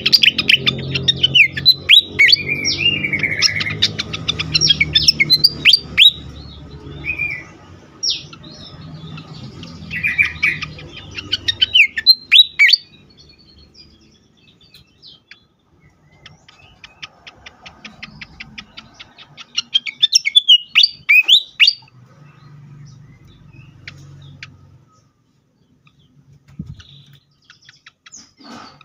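Sikatan kipas (fantail) singing in bursts of rapid chirps and sharp falling whistles. The song is densest in the first dozen seconds and comes again about 20 seconds in, with scattered notes between. A low hum lies under the first part.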